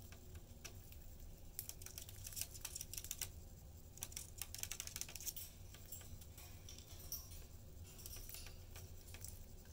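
Faint, quick, light clicking and scratching from pet budgies in their cage, coming in three rapid flurries.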